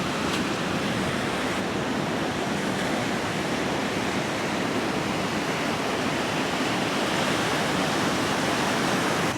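Steady, even rush of water noise at a constant level.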